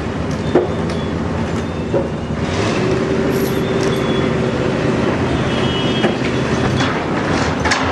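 An engine running steadily, with a few sharp knocks.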